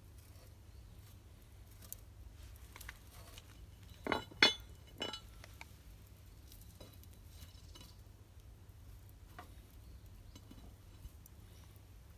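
Metal utensils and cookware clinking: three sharp clinks with a high ring about four to five seconds in, the middle one loudest, then faint scattered ticks.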